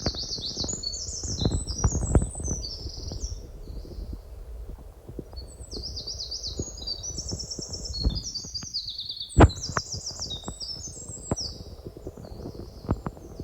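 A songbird singing quick runs of high, falling notes in two spells with a pause between, over scattered low knocks and rustling close to the microphone.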